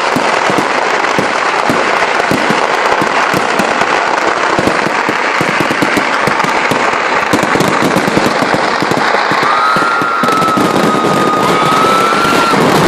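A fireworks barrage: many small firecrackers bursting in rapid, continuous crackling. These are the low-intensity crackers permitted under strict restrictions. About ten seconds in, as the crackling thins, a steady high whistle-like tone is held for about three seconds.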